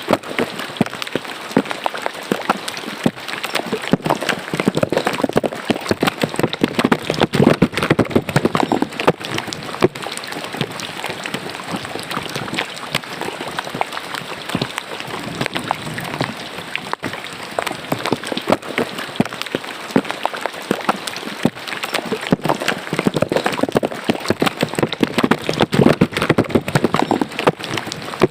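Rain falling into a roadside drainage ditch: a dense, steady patter of drops with splashing water, swelling louder twice, several seconds in and again near the end.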